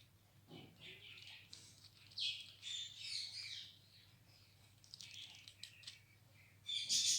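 Ringneck parrot giving short high chirps and squawks in scattered bursts, the loudest near the end.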